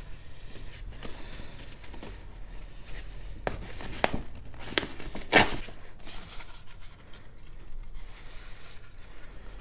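Handling noises: soft rustling with a few sharp clicks and knocks, the loudest about five seconds in, as sanding paper and tools are got ready.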